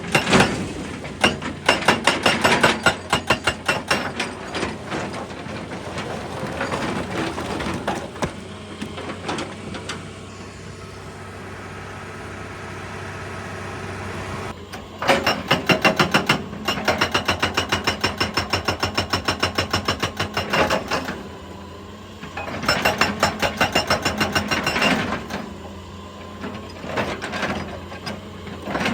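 Excavator-mounted hydraulic breaker hammering rock in bursts of rapid blows, several a second, stopping and starting again. The excavator's engine runs steadily through the pauses.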